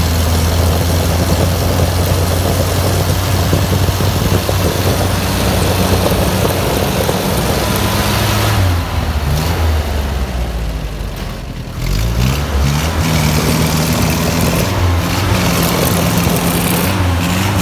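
GAZ-69's four-cylinder flathead engine running hard under load while its wheels spin in deep snow, holding a steady note. About halfway through it eases off for a few seconds, then revs back up in several rising surges and settles again.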